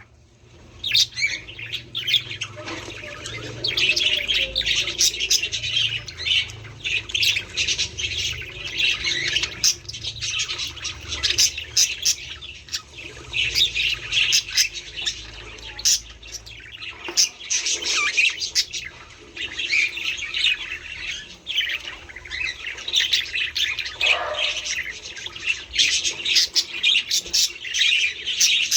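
Several budgerigars chattering, with a dense, unbroken stream of short chirps and squawks.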